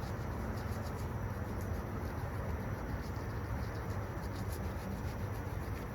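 A brush scrubbing soapy parts of a STIHL 020T chainsaw, heard as a run of small irregular scratchy strokes over a steady low rumble.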